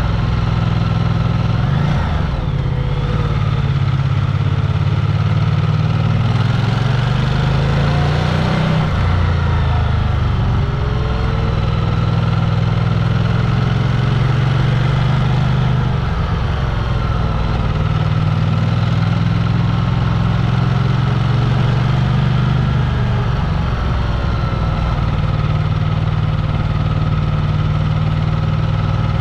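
A vehicle's engine running steadily, its pitch shifting a little now and then as it speeds up and eases off.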